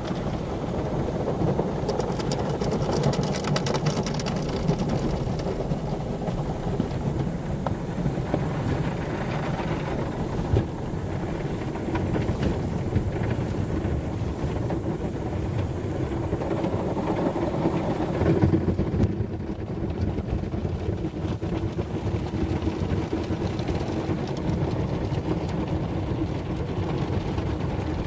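Automatic car wash machinery and water working over a car, heard from inside it: a steady, continuous rumbling wash noise that swells briefly about two-thirds of the way through.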